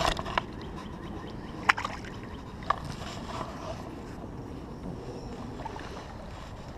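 Water sloshing against a kayak on a creek, with three sharp knocks: one right at the start, one a little under two seconds in and one near three seconds in.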